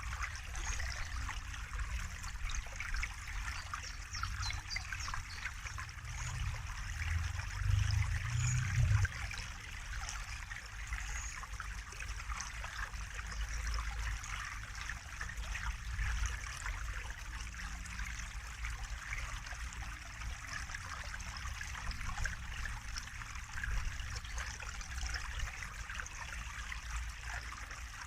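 Water trickling and running steadily, like a small stream, with a low rumble underneath that swells briefly about eight seconds in.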